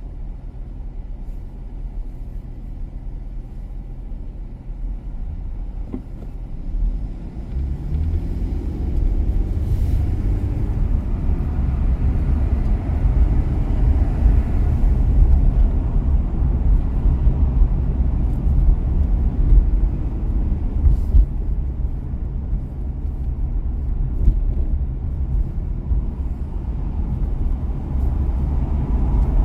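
Car driving on a city street: a steady low engine and road rumble, quieter at first, that grows louder about seven seconds in and stays so.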